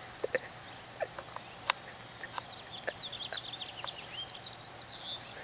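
Small birds chirping over and over, short high notes that slide downward, with a few sharp clicks in between.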